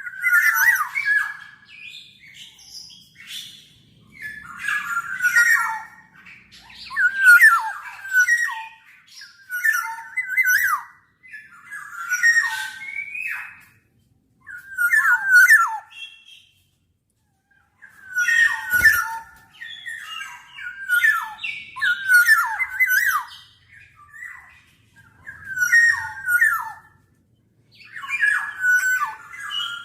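Black-naped oriole calling over and over, roughly one scratchy call every two seconds, with a short break a little past the middle.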